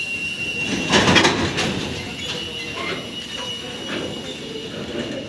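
Train rolling on the rails: a steady high-pitched squeal of wheels on rail over a rumble, with a louder clatter about a second in.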